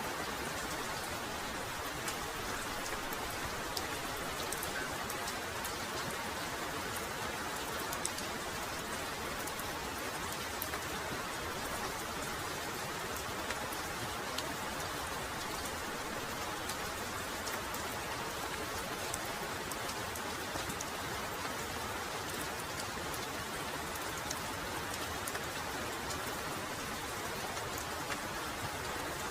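Heavy rain falling steadily, with many close individual drops striking sharply through the even hiss.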